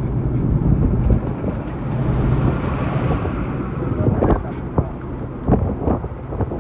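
Truck running on the road: a steady engine hum and rumble with wind buffeting the microphone, and several sharp knocks in the second half.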